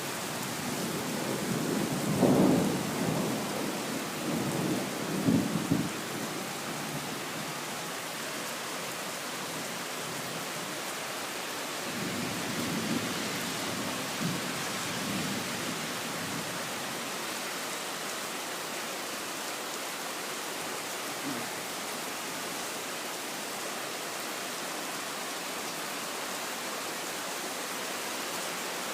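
Heavy rain pouring steadily, with thunder rumbling in swells during the first six seconds, loudest about two and five seconds in, and rolling again more softly about twelve to sixteen seconds in.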